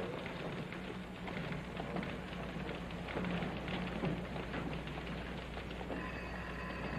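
Steady patter of rain, with a low electrical hum underneath.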